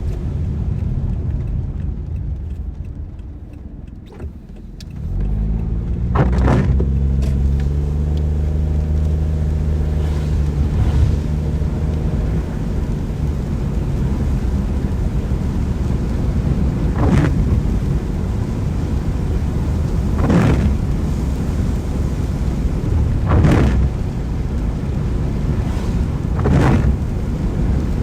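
Car driving in rain: the road and engine noise dies down to a low point about four seconds in, then the engine picks up and the car accelerates away, with its pitch rising. A short swishing sweep, likely the windscreen wipers, recurs every three to four seconds.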